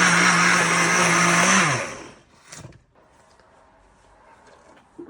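Blender running on a milkshake of ice cream and milk, its motor a steady hum that winds down and stops just under two seconds in, followed by a few faint clicks.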